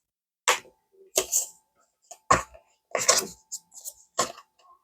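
Paper banknotes and cash envelopes being handled: a string of short, crisp rustles and flicks, several in quick succession in the second half.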